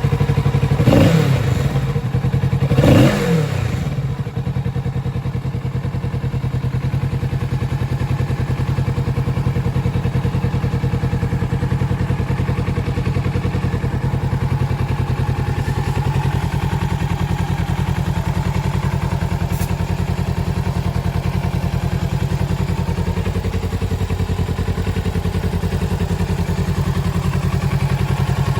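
Kawasaki Z650RS parallel-twin engine revved briefly twice in the first few seconds, then idling steadily.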